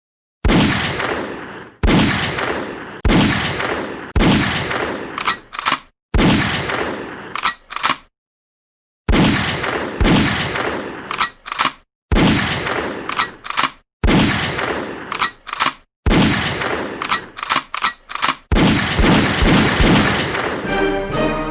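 A series of gunshot sound effects: single sharp shots about a second apart, each with a long echoing fade and a couple of quick clicks after it, with one short pause partway through. Music begins just at the end.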